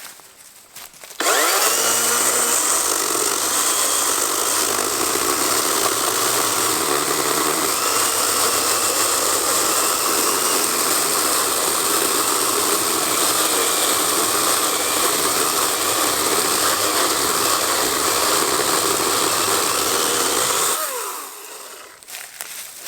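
Kobalt 80-volt battery chainsaw's electric motor spinning up about a second in with a rising whine, then running steadily for about twenty seconds while sawing through a freshly cut log, and winding down with a falling pitch near the end.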